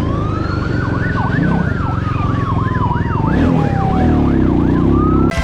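Two police sirens sounding together over a low engine rumble, one in a fast yelp and the other in a slow rising and falling wail. They cut off abruptly near the end.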